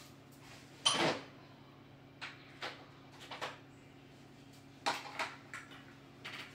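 Hand tools being put back into their set: a loud clack about a second in, then a scattering of lighter clicks and taps.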